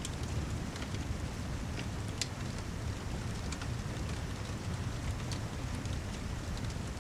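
Steady rain with a low rumble underneath, and a wood fire crackling in scattered sharp pops.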